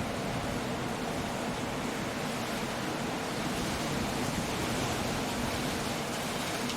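Coastal storm: a steady rush of surf breaking against rocky cliffs, mixed with wind and rain, swelling slightly about two-thirds of the way through.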